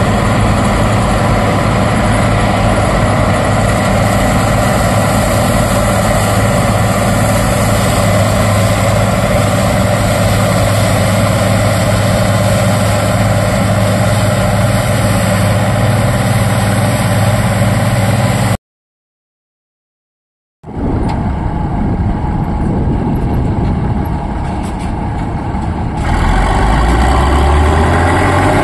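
Diesel engine of farm harvest machinery running steadily under load. After a cut and about two seconds of silence, an engine is heard again, and a low engine note rises in pitch near the end as it revs up.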